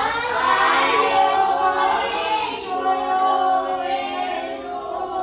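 A class of children's voices in unison, sung-sounding, with long held notes.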